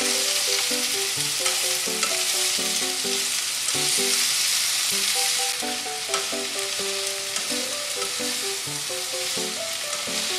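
Potatoes, onion and sausage sizzling in hot oil in a frying pan while a spatula stirs and turns them, a loud steady hiss. Light background music plays underneath.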